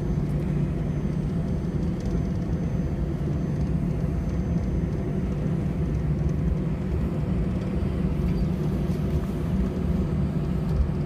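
Steady low cabin rumble inside an Airbus A320-211 on the ground before departure, with a faint steady whine above it.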